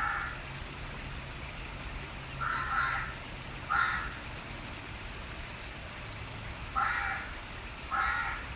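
A bird calling harshly, five short caws that come in loose pairs about a second apart, over a steady hiss of running water.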